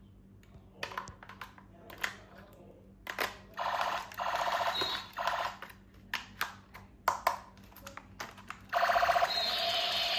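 Clicks and taps of hard plastic toy parts being handled, and a battery-powered toy giving a rattling electronic buzz three times. The last buzz starts near the end and keeps going.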